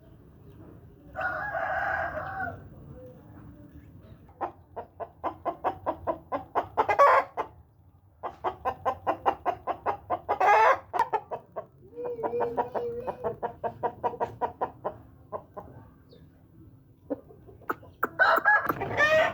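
Aseel chickens calling: a short crow about a second in, then three long runs of rapid clucks, about five a second, with louder calls among them, and another loud call near the end.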